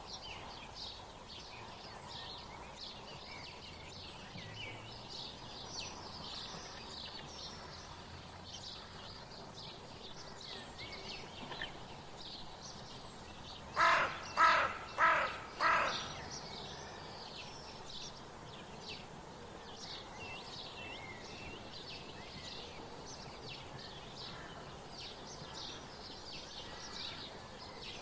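Outdoor birdsong: many small birds chirping continuously, with four loud, harsh calls in quick succession from a larger bird about halfway through.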